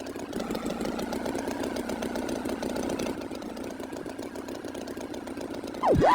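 Tractor engine running steadily, a cartoon sound effect. Just before the end, a quick swoop down and back up in pitch.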